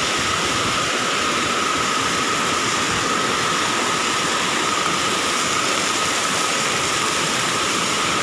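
Waterfall rushing: a steady, even roar of falling water, with a faint steady high tone running under it.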